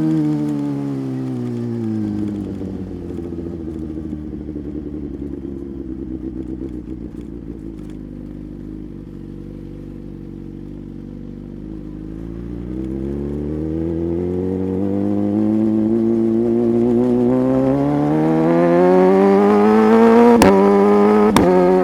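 Superbike engine with the revs falling steadily for the first ten seconds or so as the bike slows, running low for a moment, then climbing steadily as it accelerates again. Two sharp clicks near the end.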